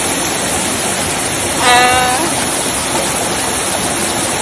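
Waterfall rushing in a steady, loud roar of water. About two seconds in, a short pitched call, under half a second long, sounds over it.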